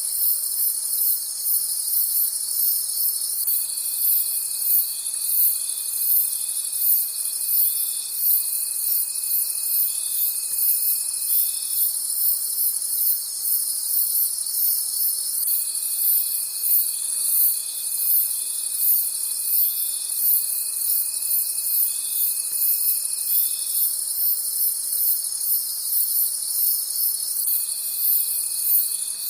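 Night crickets chirping in a dense, high-pitched, rhythmic chorus. A lower, steady trill runs under it for about eight seconds at a time, stopping for a few seconds in between, twice in the stretch.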